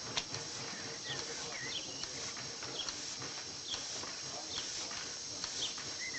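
Birds chirping in short, sliding calls, one every half second to a second, over a steady hiss with faint scattered clicks.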